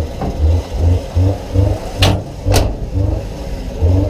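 Race car engine revving in uneven surges, about two or three a second, with two sharp bangs about half a second apart near the middle.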